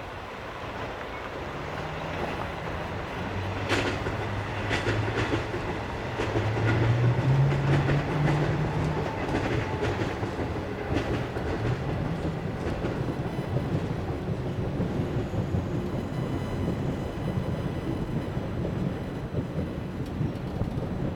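Freight train passing: a diesel locomotive's low engine note rises in pitch and is loudest about seven seconds in, with sharp clacks of wheels over rail joints between about four and eleven seconds, then the steady rolling of the wagons.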